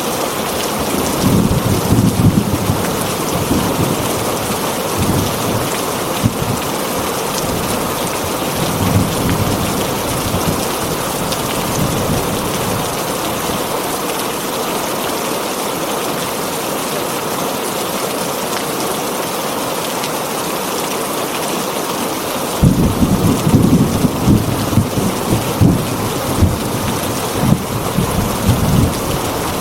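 Heavy rain pouring steadily on a tin roof, with rolling thunder: low rumbles near the start and again about a third of the way in, then a longer, louder roll of thunder through the last several seconds.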